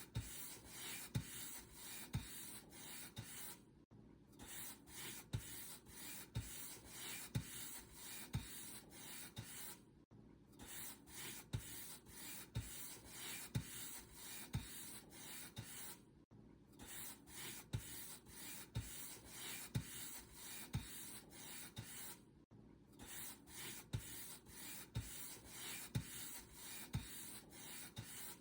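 Paint brush stroking a surface in quick repeated strokes, a dry rubbing hiss with a soft tap at the start of each stroke. The strokes stop briefly about every six seconds, then carry on.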